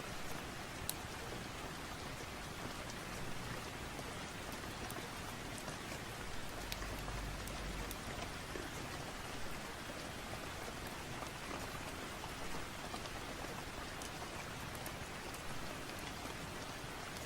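Steady rain falling on a surface, with scattered small clicks through it. A brief low rumble comes about seven seconds in.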